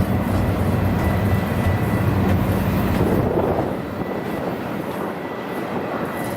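Diesel freight locomotives working upgrade with a steady low engine drone that eases about three seconds in, leaving the rumble of the train rolling past.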